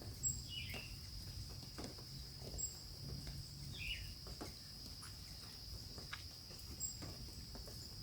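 Steady high-pitched insect chorus buzzing without a break, with a few faint clicks and two short chirps, about half a second and four seconds in.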